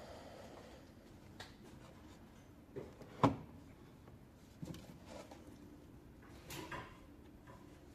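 A few scattered light knocks and clicks, the loudest about three seconds in, over a quiet background.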